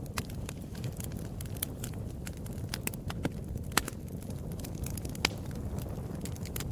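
Wood fire burning in a fireplace, crackling with irregular sharp pops over a steady low rumble; two louder pops near the middle.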